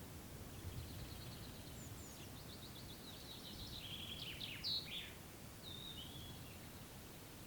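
A songbird singing: a quick run of repeated high notes, then a few sharp downward-sweeping notes and a short final phrase, over a low steady rumble.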